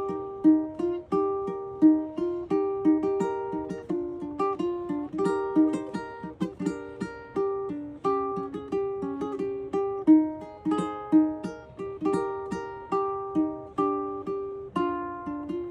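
Ukulele music: a plucked melody, several short notes a second, each ringing briefly and dying away.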